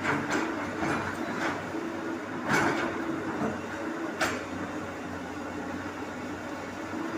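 Komatsu PC200 excavator's diesel engine running steadily, with a handful of sharp knocks, the loudest about two and a half seconds in.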